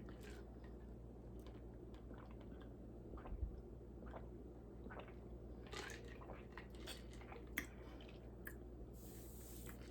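Faint sipping and swallowing of a homemade juice drink, with small scattered clicks and a soft knock about three and a half seconds in.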